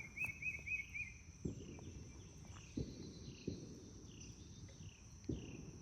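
Quiet outdoor ambience: a steady high insect drone, with a bird giving a quick run of about five chirps near the start and fainter scattered chirps afterwards. A few soft low thumps.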